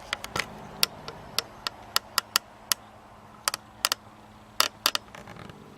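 Small wire cage trap clinking and rattling: a run of irregular sharp clicks and knocks, some in quick pairs.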